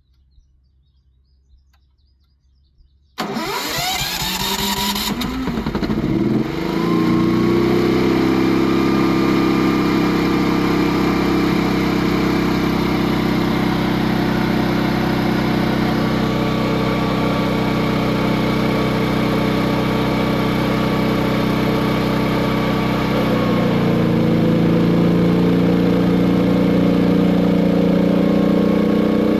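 BE Power Equipment 10,500 W inverter generator, running on natural gas, started remotely by its autostart kit: about three seconds in the electric starter cranks it and the engine catches, rising in speed, then settles into a steady run. Near the end the engine note shifts lower and gets slightly louder as the inverter adjusts its speed.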